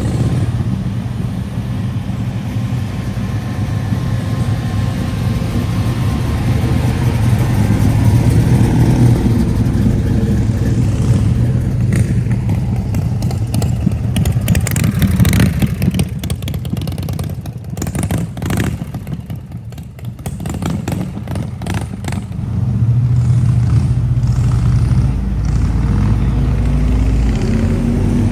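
Car engines running as vehicles drive past slowly one after another, with crackling noise in the middle and an engine revving up near the end.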